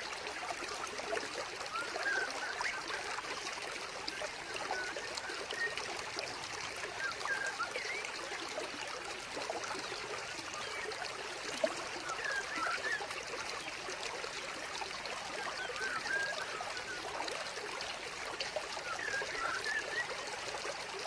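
Steady trickling and splashing of water from a small vivarium waterfall, with little plinking drips scattered throughout.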